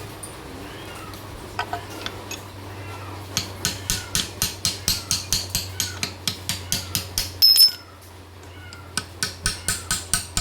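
Ratchet wrench clicking steadily at about four or five clicks a second while turning the V6 engine over by hand to set the camshafts' position. A loud metallic clink comes about seven and a half seconds in, and the clicking resumes about a second later.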